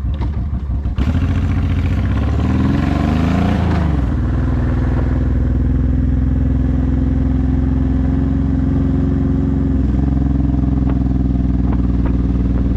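Honda VTX1800's 1800cc V-twin with Vance & Hines pipes, running under way. Its pitch swings up and down between about two and four seconds in, then it holds a steady note.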